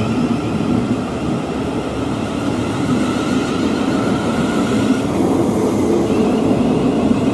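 Electric multiple-unit train running at a station platform: a steady rumble of wheels and motors with a held whine, which drops out about five seconds in as a higher whine takes over.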